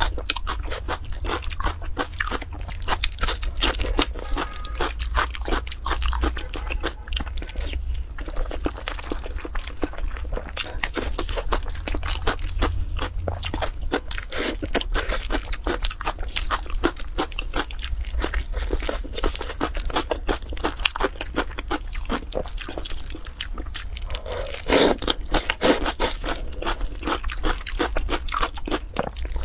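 Close-miked wet chewing, smacking and crunching of sauce-coated eggs and sliced onion, a dense run of small clicks with a low steady hum underneath. There is one louder burst near the end.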